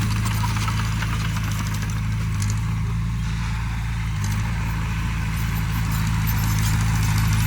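Komatsu D20P bulldozer's diesel engine running steadily, with a light metallic clatter over it.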